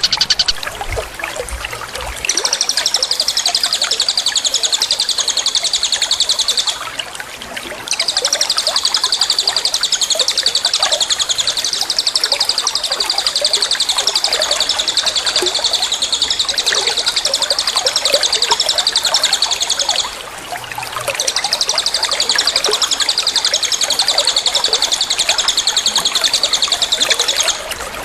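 A bird sings long, rapid, high-pitched trills in three long runs, each held for several seconds, with short breaks about 7 and 20 seconds in. Water trickles steadily beneath the song.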